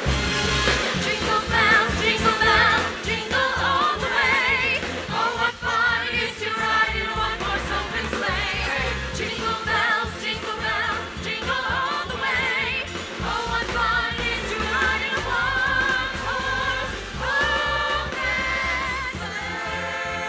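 Big band jazz music with several singing voices over the band.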